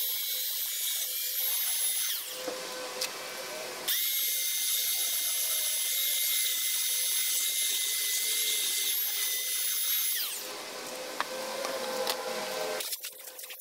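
Power sander running with a high, steady whine in two runs. It winds down about two seconds in, starts again about four seconds in, and winds down again near ten seconds.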